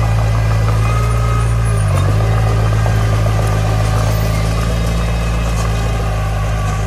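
Diesel engine of heavy earthmoving equipment running steadily, with a brief dip in pitch about two seconds in.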